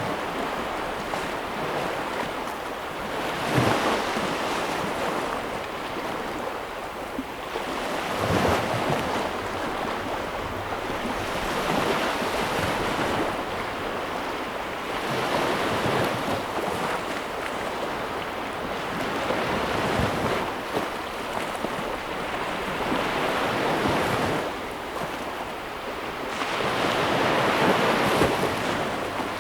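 Ocean waves breaking and washing ashore in a steady rush, swelling with each wave about every four seconds.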